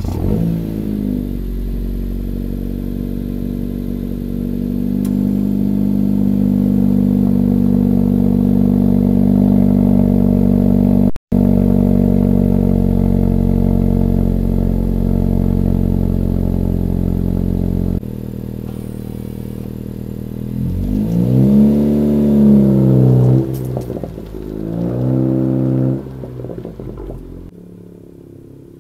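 Honda Civic Hatchback Sport's 1.5-litre turbocharged four-cylinder starting from cold through a straight-piped exhaust (muffler and resonator deleted), with a PRL Cobra cold-air intake, then fast-idling loud and steady. About 18 seconds in the idle steps down. The engine then revs up and down a few times as the car pulls away and fades.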